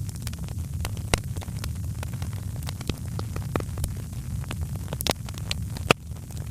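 Wood fire crackling, with irregular sharp pops over a steady low rumble from the burning fire; the loudest pops come about a second in and twice near the end.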